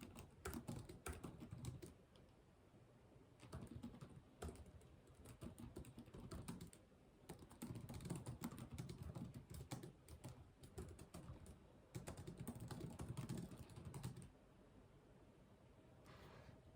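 Typing on a computer keyboard: quick runs of key clicks in bursts of a few seconds, with short pauses between them, stopping about two seconds before the end.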